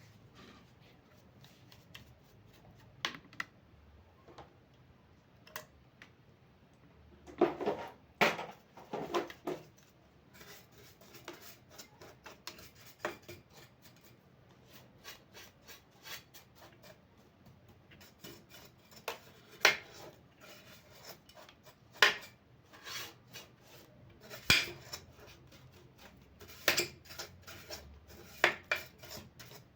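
Hands cleaning and handling the tilted-back underside of an industrial straight-stitch sewing machine: irregular rubbing and scraping with scattered clicks and knocks of metal and hard parts.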